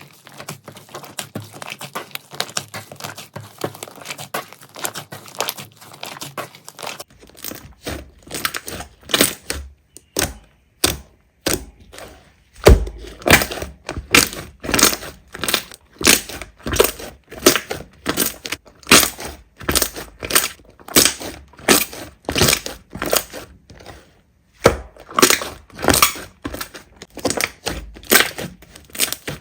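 Slime being worked by hand: a dense fine crackling for the first several seconds, then, after an abrupt change, crunchy squishes in a steady rhythm of about two a second.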